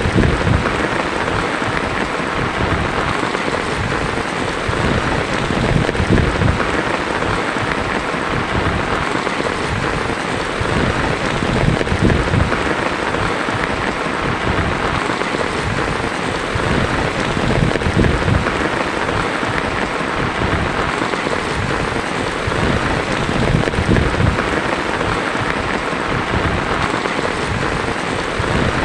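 Heavy rain drumming steadily on a tin roof, with low rumbles swelling and fading every few seconds.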